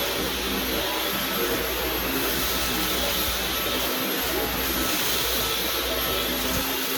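Dyson V11 cordless stick vacuum running steadily: a rush of air with a thin, high-pitched motor whine on top.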